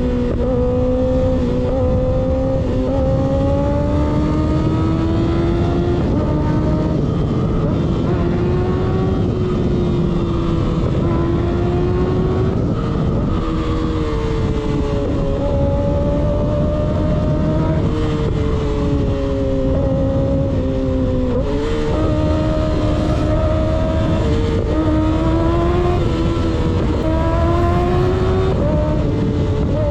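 Kawasaki ZX6R inline-four running under way through an unbaffled M4 GP19 slip-on exhaust, its pitch slowly rising and falling with the throttle, with several quick dips and jumps as it shifts gear. Wind rushes steadily under the engine note.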